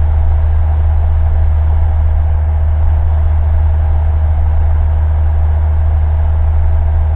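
Single-engine Cessna's four-cylinder piston engine and propeller droning steadily in cruise, heard from inside the cockpit.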